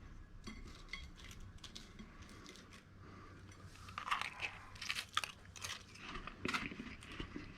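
Faint crunching and crackling of dry microwave-cooked meringue, with scattered small crunches that grow busier from about four seconds in.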